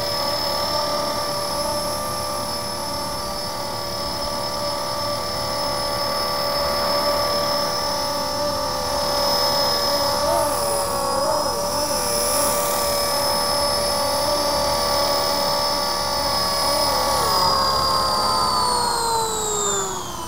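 Blade SR electric radio-controlled helicopter hovering, its motor and rotors giving a steady whine. Near the end the pitch falls smoothly as the rotor spools down.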